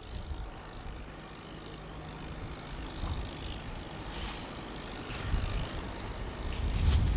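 Railway locomotive engine running steadily, a low rumble with a faint held hum, growing louder near the end.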